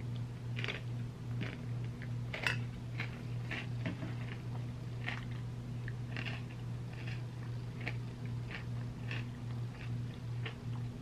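Close mouth sounds of chewing a spoonful of ice cream sundae: soft wet smacks and clicks about two a second, the sharpest about two and a half seconds in, over a steady low hum.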